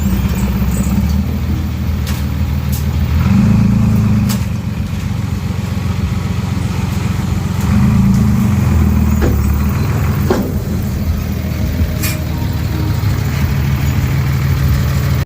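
Heavy diesel earthmoving machinery running under load, with the engine swelling twice as it works harder. A few short sharp knocks sound over the engine.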